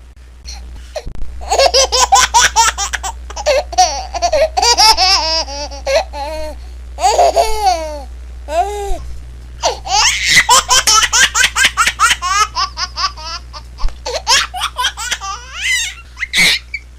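A baby laughing: long runs of quick, pulsing belly laughs with short breaths between them, over a steady low hum.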